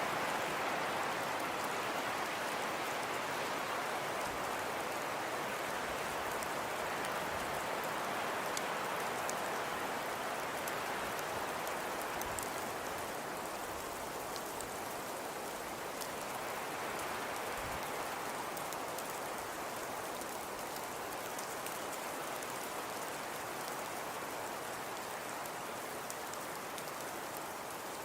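Fireplace crackling: a steady, even hiss with scattered small pops and ticks.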